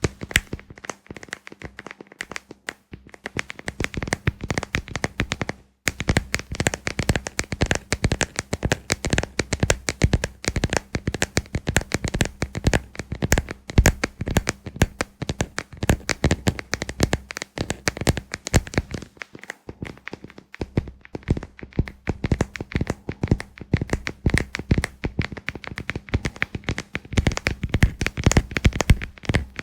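Fingers rapidly tapping and scratching on a moon lamp, a dense run of small clicks with short pauses about two seconds in, near six seconds and near twenty seconds.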